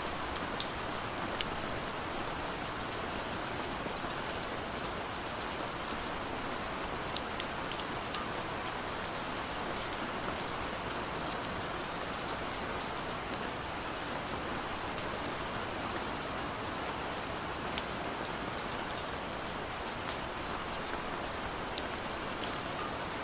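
Steady gentle rain: an even hiss of falling rain with many scattered individual drop ticks.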